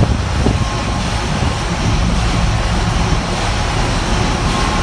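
Steady low rumble of a ship's running main engine and machinery, heard from the deck at the exhaust uptake above the engine room.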